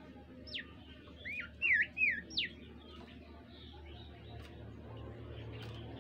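A bimoli songbird singing: a quick run of about six clear, slurred whistles, some rising then falling and some sweeping sharply down, in the first two and a half seconds, then it goes quiet. A steady low hum lies underneath.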